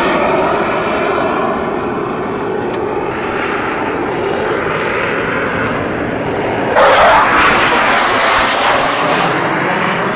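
Jet engines of low-flying F/A-18 Hornets running loud and steady. About two-thirds of the way in comes a sudden louder, harsher rush as a jet passes low overhead.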